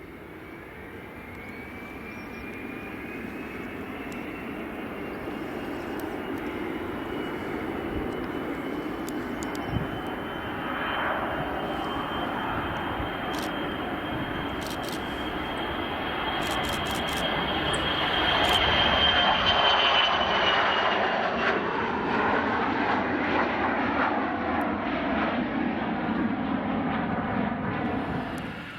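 Jet aircraft engines passing: a steady rumble with a high whine that slowly rises in pitch as the aircraft approaches. The sound is loudest about two-thirds of the way through, then the whine drops in pitch and the noise eases off as the aircraft goes by.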